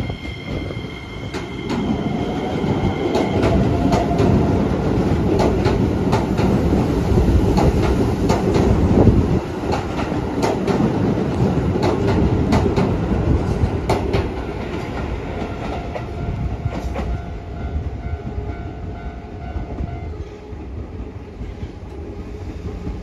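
Keisei 3000 series electric train pulling out along a station platform. Its running noise builds over the first few seconds and peaks about nine seconds in, with frequent clicks of the wheels over the rail joints, then eases off as it draws away. A high steady tone sounds at the start and stops about three seconds in.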